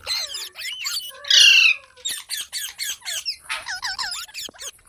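Parrot calling: one loud, harsh squawk about a second and a half in, then a quick run of short chattering notes and curling whistles.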